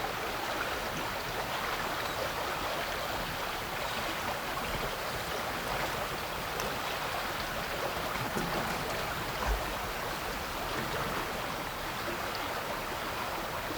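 Chalk stream water flowing under a footbridge: a steady rushing babble.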